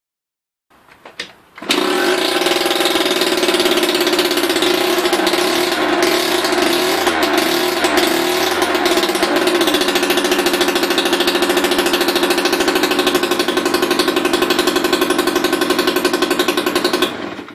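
Two-stroke 70cc moped engine running through an aftermarket Polini sport exhaust. It comes in with a few short pulses about a second in, then runs at a steady speed with a rapid pulsing beat and cuts off abruptly near the end.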